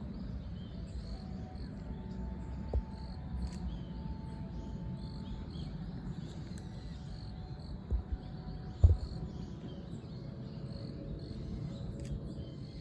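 Outdoor ambience: a steady low rumble with faint, repeated high chirping over it. A few short knocks come through, the loudest about nine seconds in.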